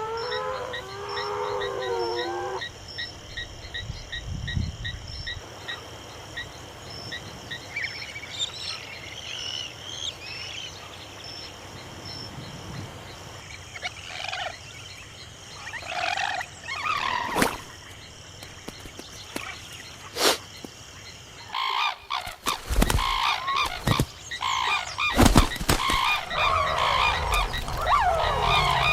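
Animal calls outdoors. Rapid, evenly repeated high chirps run through the first several seconds, with a few scattered calls and sharp clicks through the middle. Over the last several seconds many overlapping calls crowd together.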